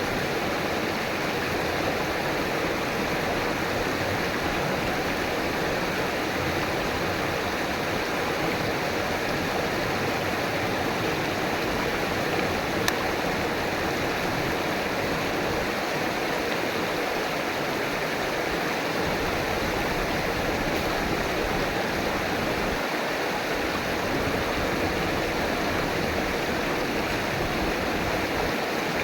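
River water rushing and babbling over rocks in a steady, unbroken flow, with one faint tick about halfway through.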